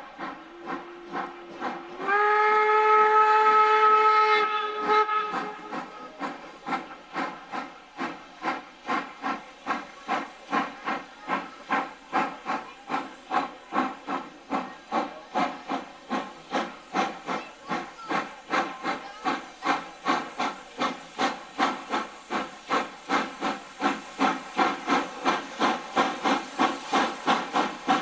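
Steam locomotive whistle blowing a long blast that steps up in pitch about two seconds in and fades out near five seconds, over the locomotive's steady, regular exhaust beats, about two to three chuffs a second, as it works under steam.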